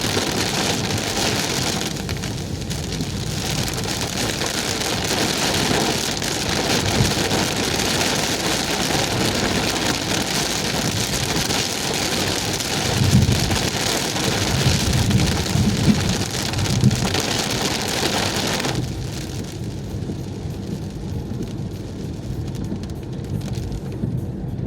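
Heavy rain falling on a moving car, heard from inside the cabin, a steady hiss with a few low thuds around the middle; the hiss falls off sharply about three-quarters of the way through.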